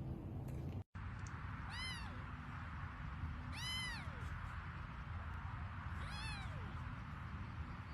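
A cat meowing three times, short high calls that rise and fall in pitch, about two seconds apart.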